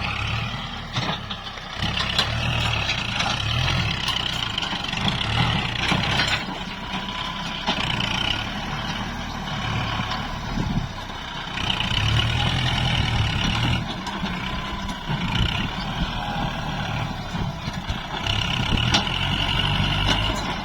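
Kubota MU4902 tractor's diesel engine working under load as it pushes soil from a paddy bund, its sound swelling and easing every few seconds.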